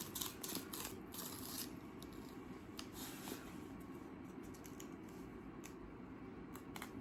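Cardboard shipping box being torn open along its tear-off strip, with rustling and handling of the box; busiest in the first couple of seconds, then fainter, scattered rustles.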